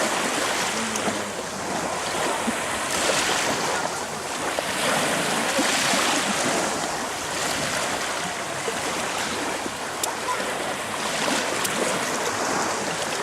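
Sea waves washing and splashing: a steady rushing of water that swells and eases every second or two.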